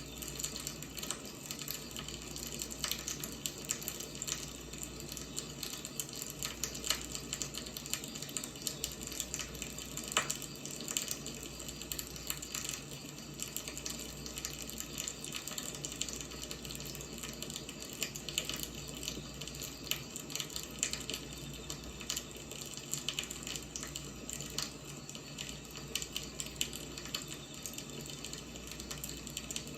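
Wood fire burning, a steady dense crackle of small pops and snaps with one sharper pop about ten seconds in.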